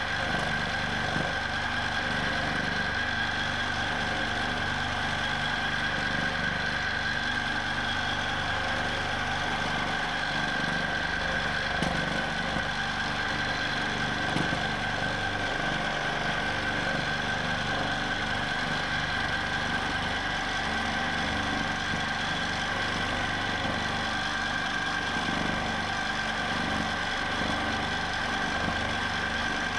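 Q'nique 19 longarm quilting machine stitching in constant-speed mode: a steady motor hum with a high, even whine over it.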